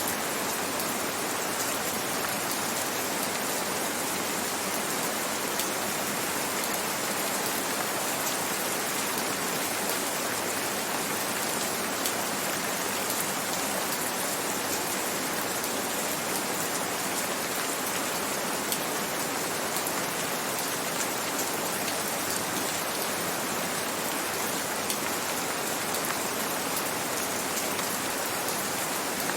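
Steady gentle rain, with many individual drops heard as small ticks over an even hiss.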